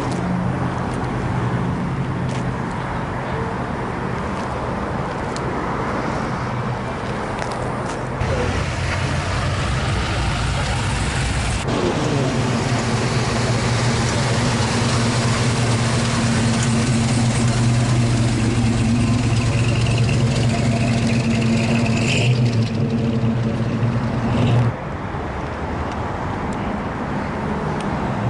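Motor vehicle engines running in a parking lot, a steady low hum. About 12 s in it changes suddenly to a different steady engine note, which cuts off abruptly about 25 s in, leaving a lower rumble.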